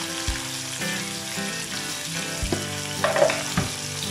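Chopped tomatoes and green chillies sizzling in hot oil in an iron kadai, with a few sharp knocks of a steel spoon against the pan, the loudest just after three seconds in.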